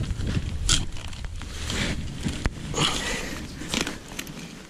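Digging into soil to recover a metal-detector target: irregular scrapes, crunches and sharp clicks of a digging tool working through the ground.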